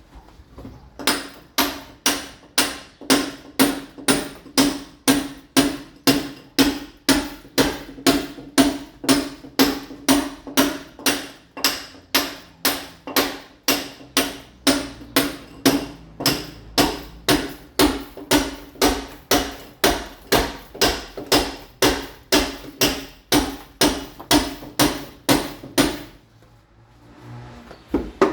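A mason's club hammer (marreta) striking a masonry wall, chipping it to take ceramic tile, in a steady run of blows at about two a second, each with a short ring. The blows stop about two seconds before the end.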